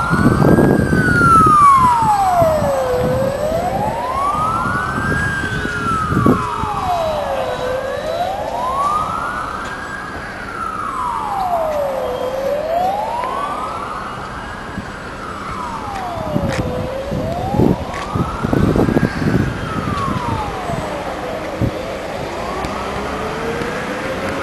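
Wailing siren, its single tone rising and falling slowly and evenly, about once every four and a half seconds. Low thumps and rumbles come and go beneath it, strongest near the start and again in the second half.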